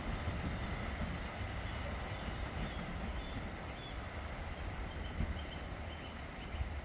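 Low, steady rumble of a train on the line, with no distinct exhaust beats.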